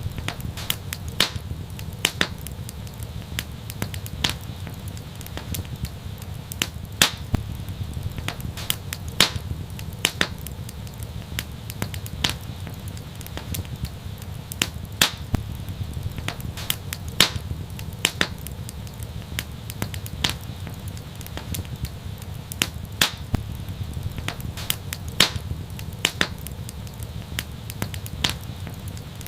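Wood fire crackling, with irregular sharp pops and snaps, a few a second and some much louder than the rest, over a steady low rumble.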